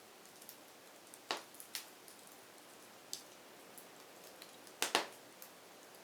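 Wood fire crackling: a soft steady hiss with scattered sharp pops and snaps, the loudest a quick double pop about five seconds in.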